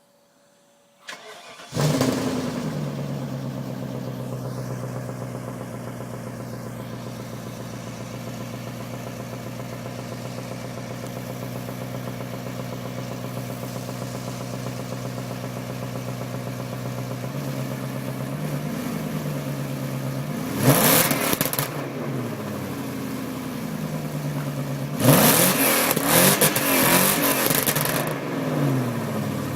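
BMW 740i engine with de-cat pipes (catalytic converters removed) being started: it cranks briefly, catches with a loud flare and settles into a steady idle. It is revved once about twenty seconds in and revved several times near the end.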